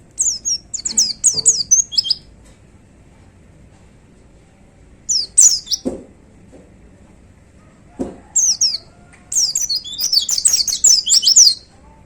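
A white-eye (pleci) singing in three bouts of rapid, high, down-slurred twittering notes, the last bout the longest. A few faint low knocks come with them.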